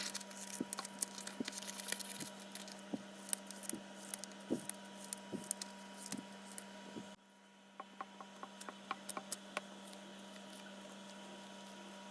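Scattered light taps and clicks of small handling noises over a steady low hum. The background drops abruptly about seven seconds in, a few more clicks follow, and then only a faint steady hiss remains.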